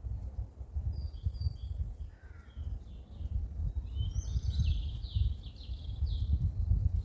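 Small birds chirping outdoors, with a quick run of high song notes about four seconds in, over a steady uneven low rumble.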